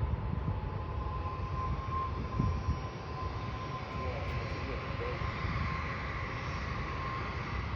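Steady low rumble of distant jet aircraft engines, with a faint steady whine over it.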